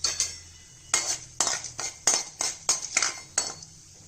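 Metal spoon stirring in a kadai, knocking and scraping against the pan in a quick run of clinks, about a dozen in all.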